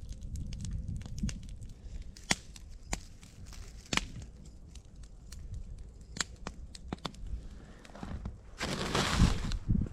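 Wood campfire crackling, with irregular sharp pops and snaps. Near the end comes about a second of dense rustling noise.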